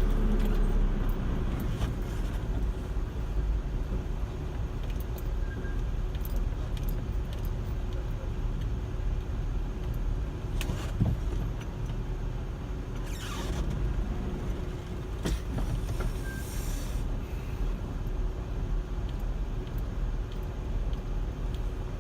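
Steady road and engine rumble of a car being driven, with small light rattles and clicks.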